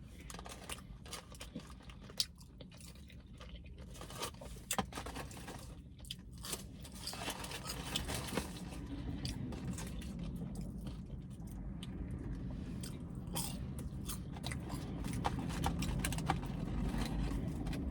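A person chewing and biting into a smash burger close to the microphone, with crisp crunches and small wet mouth clicks. The chewing grows louder about halfway through.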